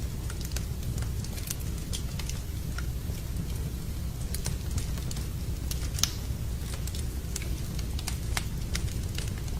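Wood campfire crackling, with irregular sharp pops and one louder pop about six seconds in, over a steady low rumble.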